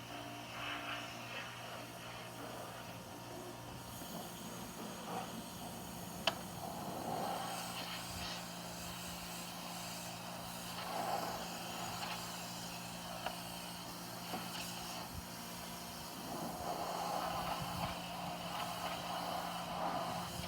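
Pressure washer running with a steady hum that steps up in pitch about four seconds in, with a single sharp click about six seconds in.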